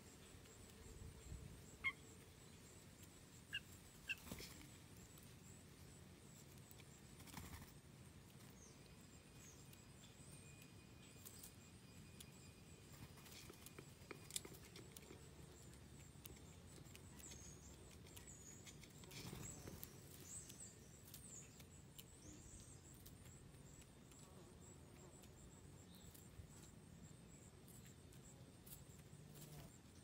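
Near silence: quiet outdoor background with a few short, faint bird chirps and light ticks, most of them in the first few seconds.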